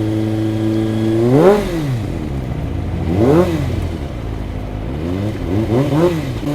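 Kawasaki ZX25R's 250 cc inline-four idling steadily, then revved three times in short blips that rise and fall back to idle, the engine being warmed up while still cold.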